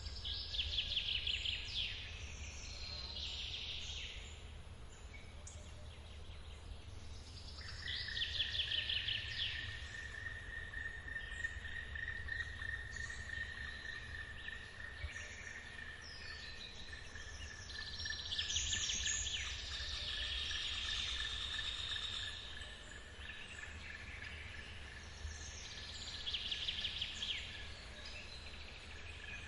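Forest birds sing in short, rapid trilled phrases every few seconds over the steady low rumble of a waterfall. A steady, high, pulsing insect trill starts about a quarter of the way in and carries on.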